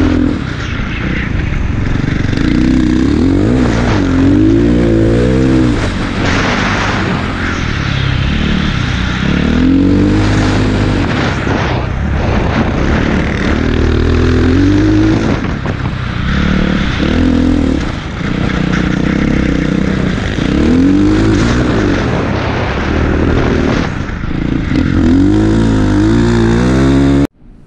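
Dirt bike engine revving up and down over and over as it is ridden through soft sand dunes. The sound cuts off abruptly near the end.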